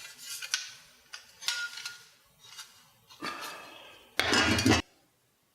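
Metal bead-roller dies and hand tools clinking and clanking against steel while dies are being changed: a few sharp clinks, then a longer clatter and a louder clank about four seconds in.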